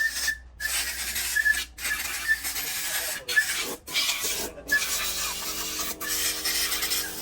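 Hand scrubbing or abrading of an engine part: a harsh rasping hiss in repeated strokes, about one a second, each broken by a short pause.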